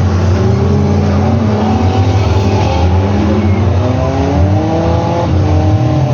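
Demolition derby cars' engines running loud. One engine revs up steadily over a few seconds and drops back about five seconds in, over the low rumble of the others.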